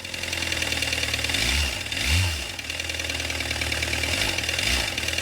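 2013 Volkswagen Jetta TDI's 2.0-litre turbodiesel four-cylinder running louder than normal, its sound swelling briefly a few times. The noise comes with the oil warning light on, a sign of low oil pressure.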